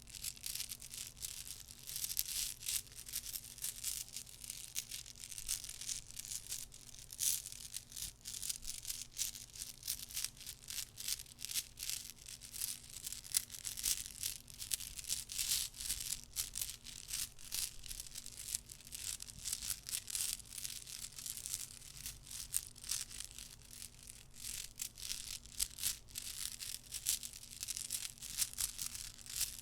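Decorative glass stones (flat glass beads) clicking and rattling against each other as they are handled and stirred, a steady stream of small, close-up clicks.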